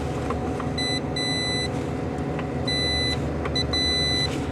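A multimeter's continuity beeper sounding in five short, irregular high beeps, from a brief blip to about half a second long, as the test probes make and break contact while fuses are checked. A steady low mechanical hum runs underneath.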